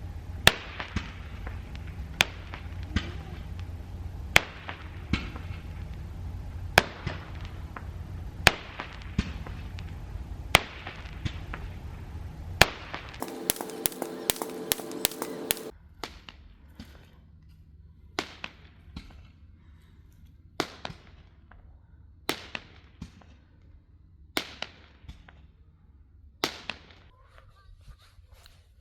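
Repeated sharp pops or cracks, one every second or two. A quick run of about eight rapid clicks comes about halfway through, and the background goes quieter after it.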